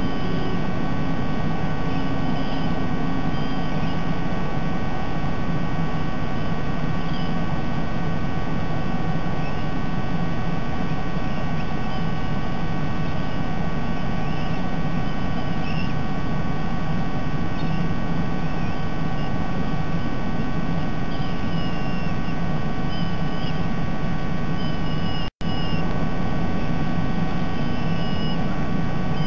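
Steady electrical hum and hiss with several constant tones, over which faint short bird chirps come and go. The audio cuts out completely for an instant about 25 seconds in.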